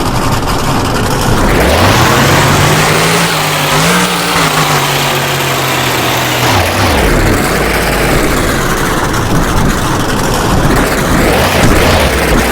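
Monster truck engine revving hard: the pitch climbs about a second and a half in, holds high for several seconds, drops off around seven seconds in, then climbs again near the end.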